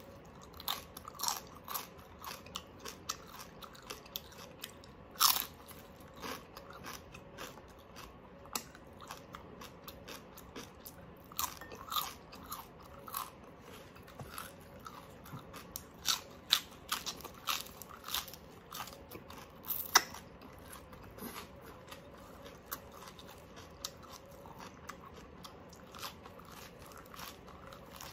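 Close-miked chewing of crispy roasted pork skin: a long run of sharp crackling crunches, with two louder bites about five and twenty seconds in.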